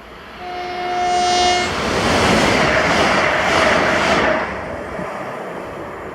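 A ScotRail Class 385 electric multiple unit sounds one steady horn note for just over a second, then rushes past at speed with loud wheel and air noise that tails off over the last couple of seconds.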